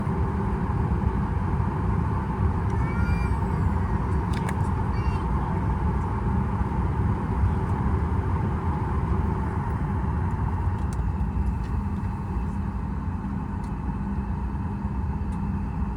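Steady low rumble inside the cabin of a Boeing 737 MAX 8 on the ground, with a constant hum running through it. A brief high squeak comes about three seconds in, and a faint steady high tone joins about ten seconds in.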